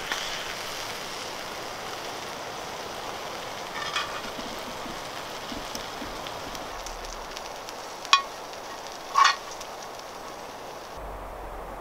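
Onions and mushrooms sizzling steadily in a pan over campfire coals, with short metallic clicks of tongs about four seconds in and twice near the end.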